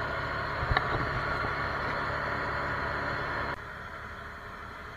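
Steady hum of a fishing boat's engine running, with one brief knock about three-quarters of a second in; the hum drops suddenly to a quieter level about three and a half seconds in.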